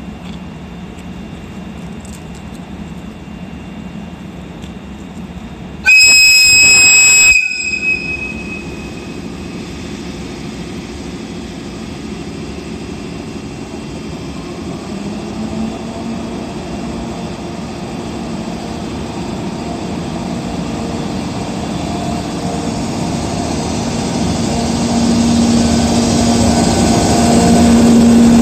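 EF64 electric locomotive's whistle sounding once, a loud high tone lasting about a second and a half, as it departs hauling a 205-series train set. Then the running noise of the locomotive and train grows steadily louder, with a low hum rising near the end.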